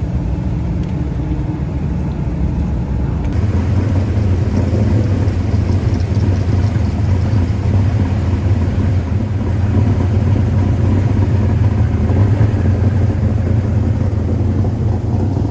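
Dirt-track race car engines running steadily with a deep rumble, growing a little louder about three seconds in.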